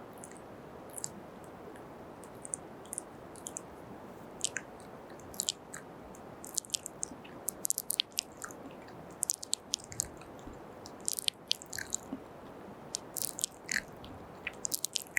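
Close-miked kissing and wet lip-smacking mouth sounds: short sharp smacks and clicks, a few at first, then coming quickly from about four seconds in, over a steady low hiss.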